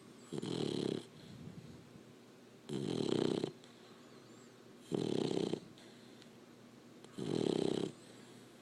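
Labrador puppy snoring in its sleep: four snores about two and a half seconds apart, each lasting under a second.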